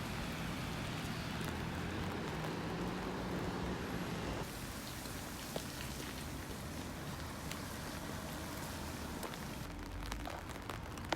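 Steady hiss of ambient noise with a low hum underneath, dropping in level about four and a half seconds in and shifting again near the end, with a few faint clicks.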